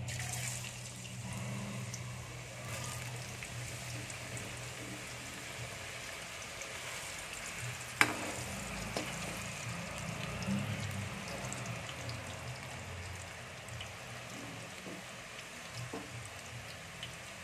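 Thin-cut raw potato strips frying in hot oil in an aluminium kadai, a steady sizzle with bubbling and scattered crackles that starts as they go in. About eight seconds in, the slotted spatula gives one sharp clack against the pan.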